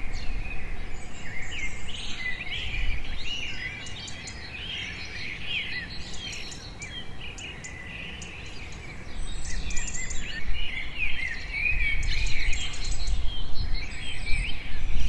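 Wild birds chirping and twittering in quick, overlapping calls, with a low rumble underneath that grows louder about halfway through.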